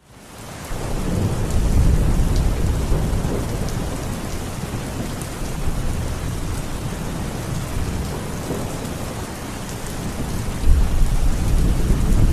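Heavy rain falling steadily, with low rolling thunder rumbling underneath. It fades in over the first second or so, and the thunder swells again near the end.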